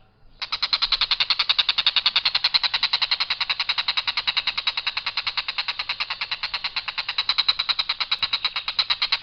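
Tengkek buto kingfisher giving its long, harsh rattling call, about ten rapid notes a second without variation. It starts about half a second in and runs on without a break.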